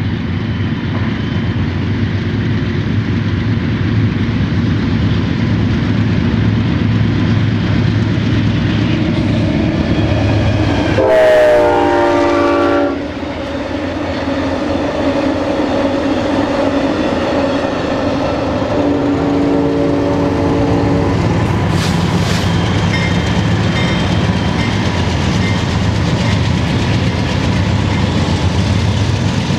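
Diesel trains passing close by: a steady locomotive engine rumble with wheels clacking on the rails. A loud multi-note train horn sounds about a third of the way in, sliding down in pitch as it goes by. A second horn chord is held for about two seconds about two-thirds of the way through.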